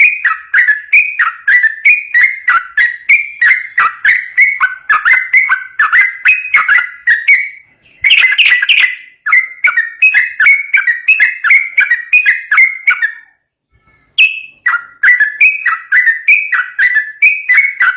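Yellow-vented bulbul singing a rapid, continuous run of loud, bubbly falling notes, about three to four a second, with two brief pauses.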